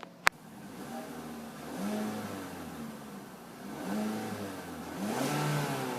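2015 Ford Fusion SE engine running and blipped three times, the pitch rising and falling with each rev. A sharp click comes just before the first rev.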